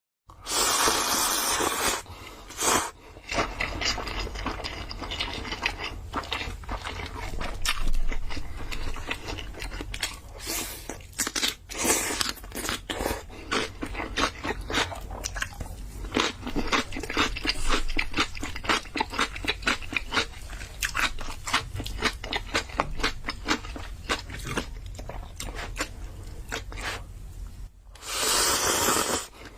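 Close-miked eating: rapid wet chewing and crunching clicks, with a loud longer stretch of noise at the start and another near the end.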